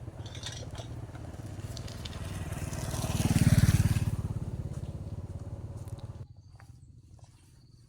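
Motorbike engine running, growing louder for a moment about three and a half seconds in, then switched off about six seconds in.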